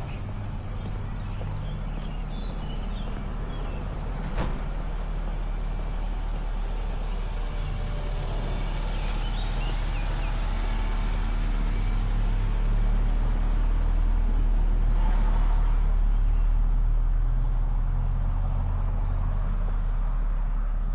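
Road traffic rumbling, with engine hum growing louder toward the middle and easing off a little near the end. One sharp click comes about four seconds in.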